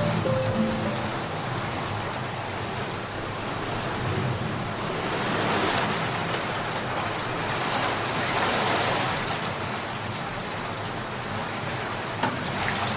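Steady rushing of a waterfall, a dense hiss of falling water that swells a little and eases off again.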